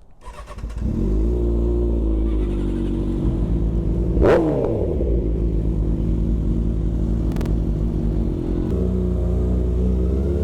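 Kawasaki ZX-6R inline-four motorcycle engine starting up or pulling off about half a second in, then running steadily at low revs. About four seconds in there is a loud peak where the engine pitch swings quickly down and back up, and there is a short click a few seconds later.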